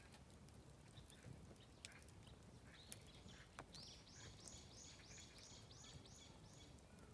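Oak firewood crackling softly in a campfire, with a few sharp pops. A bird sings a quick run of about ten repeated high notes from about four seconds in.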